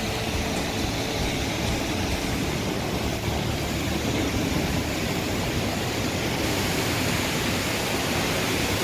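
Steady, even rush of water, with no breaks or distinct events.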